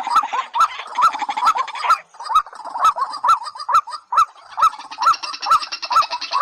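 Rail-family marsh birds (white-breasted waterhen and watercock) calling: a short hooked note repeated steadily about two to three times a second with sharp clicks. A second, higher chattering call joins about five seconds in.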